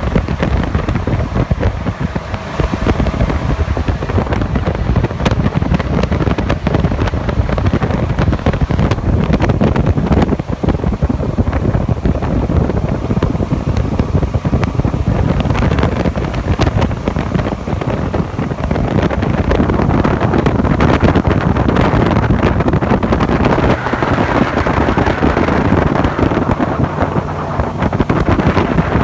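Jet boat under way, its engine and water jet running steadily, with heavy wind buffeting on the microphone.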